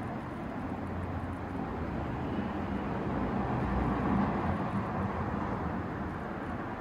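Steady outdoor rumble and noise like passing traffic, swelling about four seconds in and then easing.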